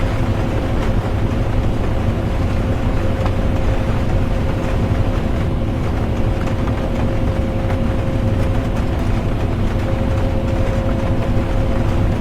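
Steady interior drone of a bus driving: low engine and road rumble with a constant mid-pitched hum, under a light hiss of rain.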